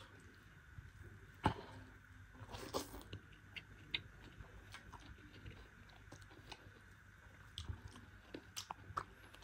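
Quiet, close-up sounds of a person eating rice and curry by hand: soft chewing with scattered small clicks and smacks from the mouth and fingers on a steel plate, over a faint steady hum.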